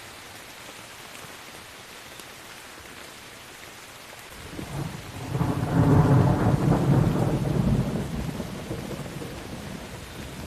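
Steady rain, then a long roll of thunder that builds from about four seconds in, peaks a couple of seconds later and rumbles away slowly while the rain keeps falling.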